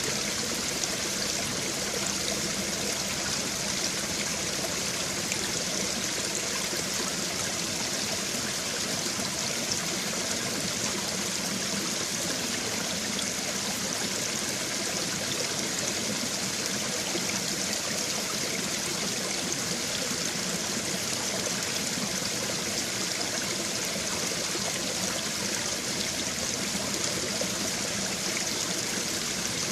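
A babbling brook: shallow stream water running and trickling steadily over stones, an even splashing rush with no breaks.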